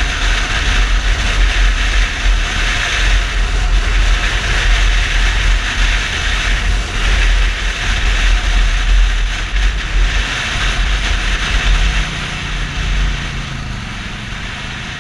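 Yamaha Fazer 250 motorcycle riding at speed, its engine under a heavy rush of wind over the microphone. About twelve seconds in the wind drops and a steady engine tone comes through as the bike slows.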